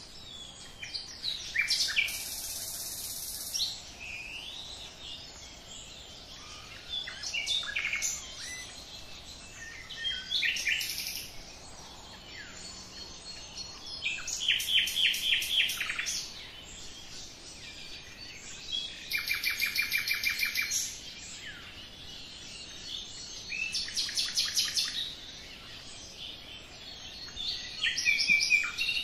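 Songbirds singing, with phrases of rapid trilled notes every few seconds over a quiet background.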